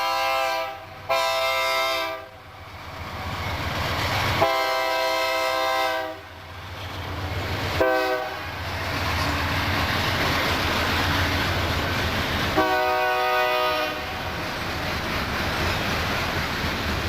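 Diesel locomotive air horn sounding a series of chord blasts in the long, long, short, long pattern of a grade-crossing signal, over the rising rumble of a freight train passing.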